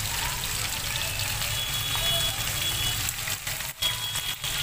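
Sliced onions and ginger sizzling in hot mustard oil in a frying pan as they are added, a steady frying hiss.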